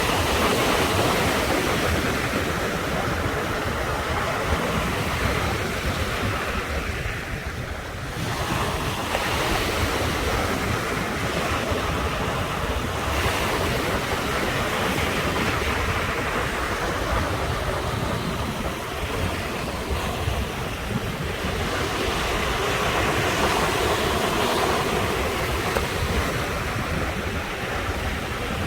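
Ocean surf: waves breaking and washing ashore continuously, swelling and easing, with a brief lull about eight seconds in. Wind buffets the microphone with a low rumble.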